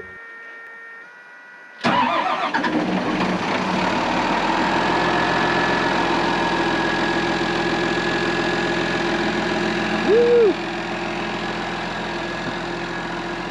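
A snowcat's engine comes in abruptly about two seconds in and then runs steadily. A brief tone sounds over it about ten seconds in.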